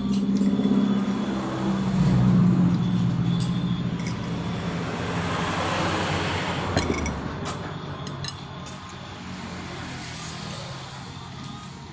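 A motor vehicle engine running and passing by: a low hum that swells and then fades, with a few light clicks.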